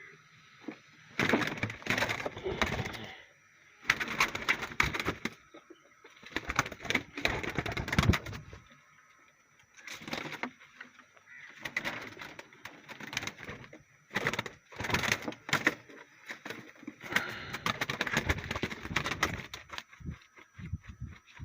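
Birds making repeated crackling, clicking bursts, each lasting a second or two, with short gaps between them.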